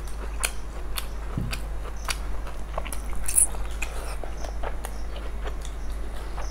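Close-up chewing and lip-smacking of people eating fried rice and egg curry: a steady run of short wet clicks and smacks, the sharpest about three and a half seconds in.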